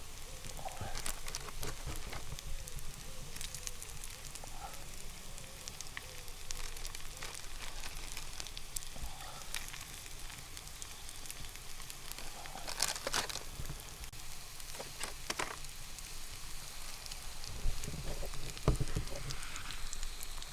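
Campfire crackling: irregular pops and snaps over a steady hiss, with a burst of louder snaps about two-thirds of the way through.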